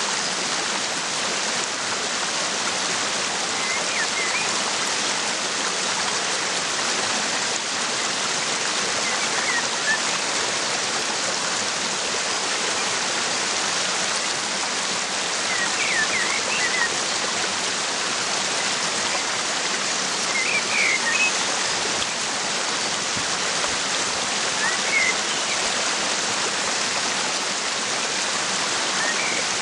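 Waterfall rushing in a steady hiss, with short bird chirps heard now and then above it, about six small bursts.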